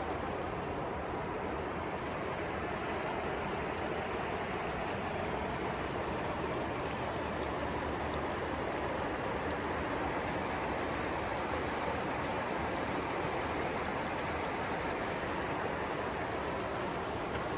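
Narayani river water rushing, a steady, even roar of flowing water with no breaks.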